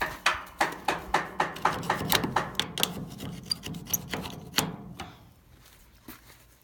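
A quick run of sharp knocks on metal, about three or four a second for roughly four and a half seconds, slowing and stopping near the end, over a low steady rumble.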